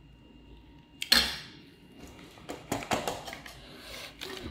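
Cookware being handled: a pan or dish is set down with a sharp clatter about a second in, followed by several lighter knocks and clinks.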